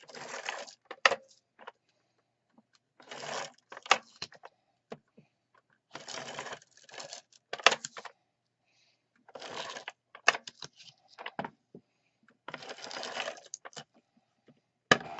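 Tape runner drawn along the back of a cardstock layer to lay down adhesive: five short rasping strokes about three seconds apart, each with sharp clicks.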